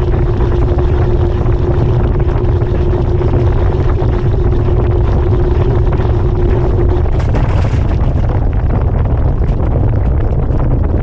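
GE GTW220ACKWW top-load washing machine running, heard from a camera mounted on its agitator inside the tub: a loud, steady low rumble with a steady hum that stops about seven seconds in, followed by a brief hiss.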